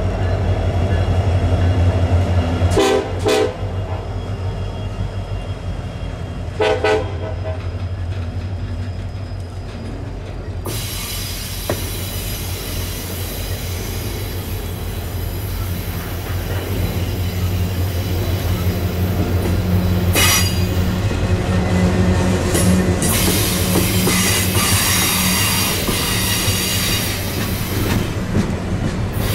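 A Union Pacific freight train passing close by: the trailing EMD SD70M diesel locomotive rumbles past, then double-stack container well cars roll by with wheel noise on the rails. There are two sharp clanks about three and seven seconds in, and from about ten seconds in the wheel noise turns to a louder steady hiss and squeal.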